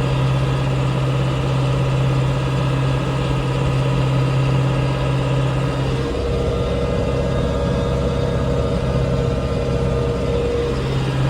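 Tractor engine running steadily. About six seconds in, its deep drone changes and a steady higher whine comes in for about five seconds, then the earlier drone returns near the end.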